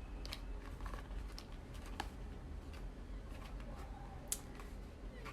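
Snack packaging being handled: light clicks and crinkles of boxes and wrappers, with two sharper clicks about two seconds in and just past four seconds, over a faint low hum.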